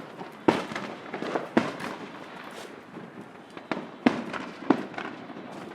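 Consumer fireworks going off: a string of sharp bangs, four of them louder than the rest, with smaller pops and crackling between.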